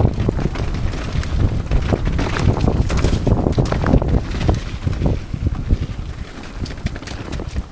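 Wind buffeting the microphone of a mountain bike's on-board camera as the bike rides a wet, muddy trail, with the frame and parts rattling in many quick knocks and clicks. It eases off somewhat in the last couple of seconds.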